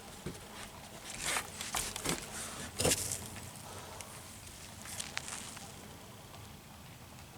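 Footsteps on a woodland trail: a handful of uneven steps, the loudest about three seconds in, stopping after about five seconds.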